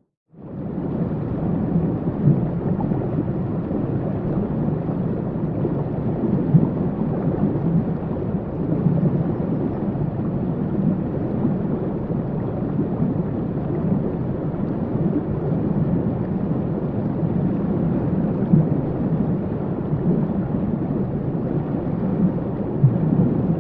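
Steady, deep rush of a waterfall, even and unbroken. It fades back in within the first half second after a brief gap of silence.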